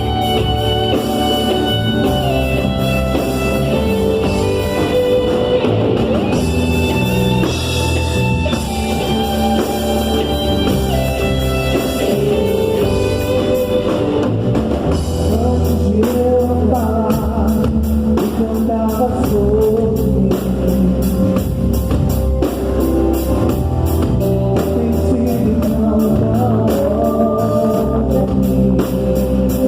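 Live worship band playing a praise song: drum kit, guitar and singing over a steady beat, with the drums coming in more strongly about halfway through.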